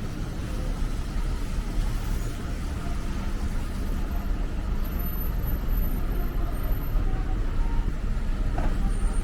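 City street traffic: a steady low rumble of passing cars and buses.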